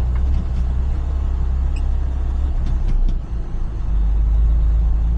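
Semi-truck diesel engine running with a steady low rumble, which eases briefly about three seconds in and then comes back up.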